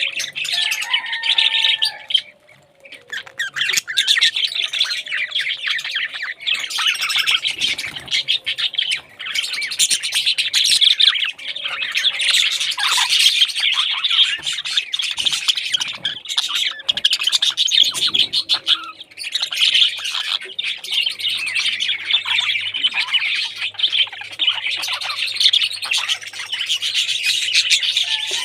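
Many parrots chattering, chirping and squawking all together, with a brief lull about two seconds in.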